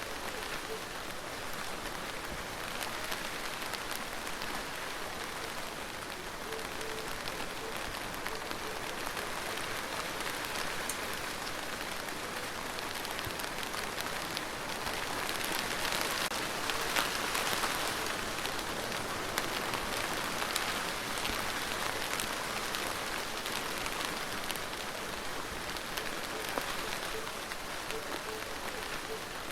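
Steady rain falling and pattering on a surface, a dense hiss with scattered individual drop ticks, swelling a little heavier about halfway through.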